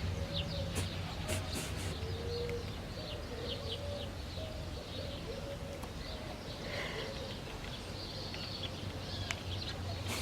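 Swallows twittering in many quick, high chirps, with a dove cooing low underneath, over a steady low hum.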